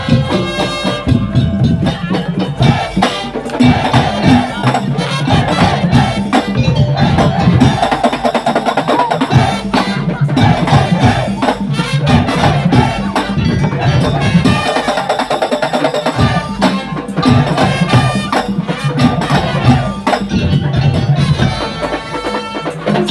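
Madurese tongtong (daul) ensemble playing: wooden slit drums and drums beating out a dense, continuous rhythm with a melody running over it.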